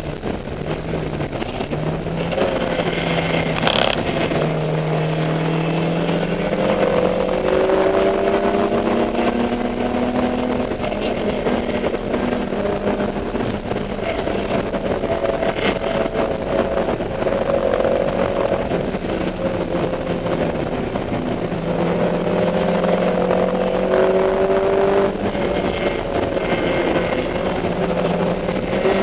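Dodge Neon race car's four-cylinder engine under racing load, its pitch climbing over several seconds as it accelerates and dropping back at shifts or lifts. A single sharp knock is heard about four seconds in.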